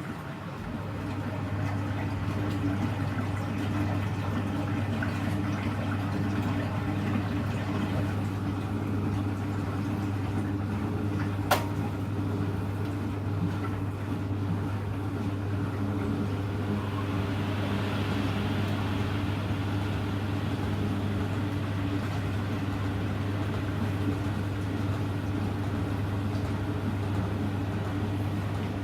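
Hoover Electra front-loading washing machine running with a steady low motor hum. A single sharp click comes about eleven seconds in.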